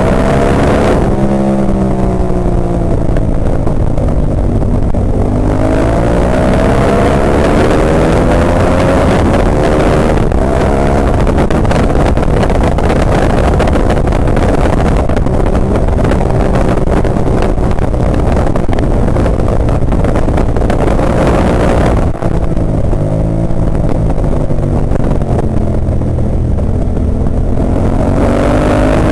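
Ducati 998's V-twin engine at racing speed, heard from on board. Its pitch climbs as it accelerates, holds high and steady with a dense rush of noise, then drops as it slows about two-thirds of the way through, and climbs again near the end.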